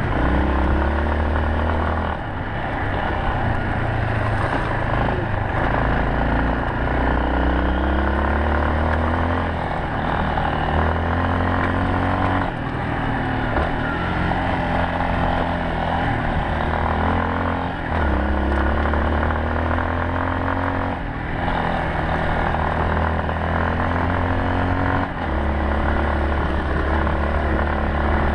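Yamaha Serow 250's single-cylinder four-stroke engine running on the move, its pitch rising through each gear and dropping back at each shift, about five times.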